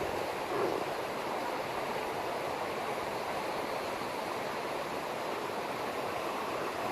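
Steady rush of a river in flood, its swollen water running high and fast as it overflows its banks.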